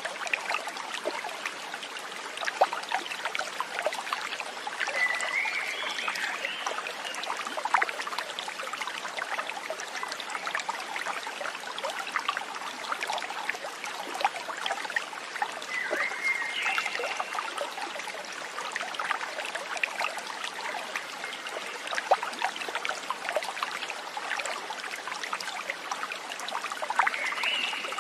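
Small stream trickling and splashing steadily, with three short chirping calls about five, sixteen and twenty-seven seconds in.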